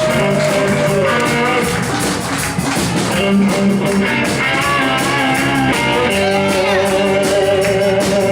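Live rock band playing between announcements: held, bending electric guitar lines over drums with a steady cymbal beat and bass underneath.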